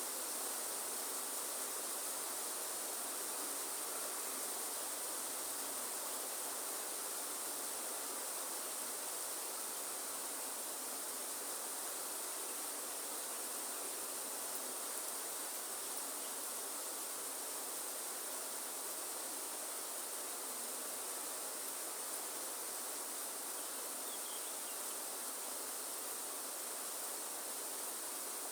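Steady rain falling in a rainforest, an even hiss with no pauses, under a continuous high-pitched insect drone.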